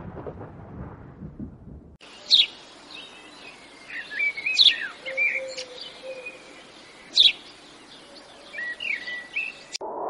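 A fading storm rumble gives way suddenly to songbirds chirping and whistling, with three sharp high calls standing out as the loudest moments. The birdsong cuts off abruptly near the end as a steady low tone begins.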